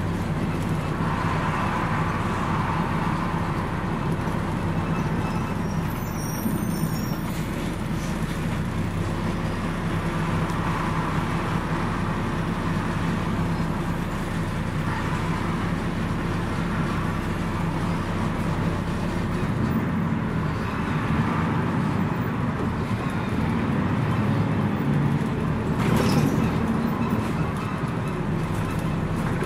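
Scania DSC 11.71 diesel engine of a Scania CN113CLL city bus running steadily while under way, heard from inside the bus. Its note changes about two-thirds of the way through, and there is a single sharp click near the end.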